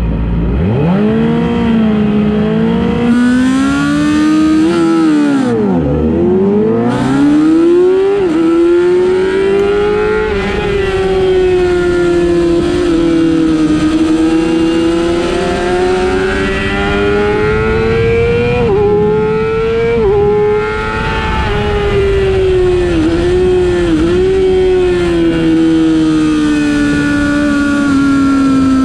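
Race motorcycle engine at full throttle, heard from on board. It climbs steeply from low revs in the first second, dips and rises again while braking and accelerating around five to seven seconds in, and drops in pitch abruptly at each quick upshift (twice around eight to ten seconds in, twice more around nineteen to twenty).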